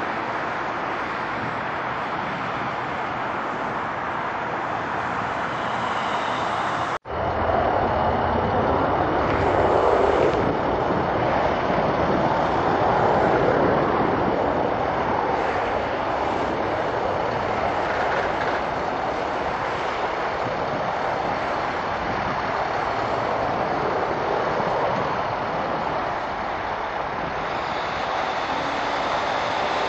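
Jet airliner engines running, a steady rush of engine noise. It cuts out for an instant about seven seconds in, then comes back louder and swells a couple of times.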